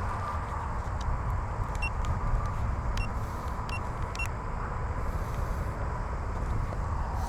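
Wind buffeting the microphone: a steady, unsettled low rumble, with a few faint short high ticks near the middle.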